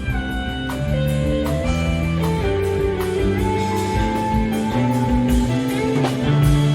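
Live rock band playing an instrumental passage between verses: held notes over bass and a steady drum beat, with no singing.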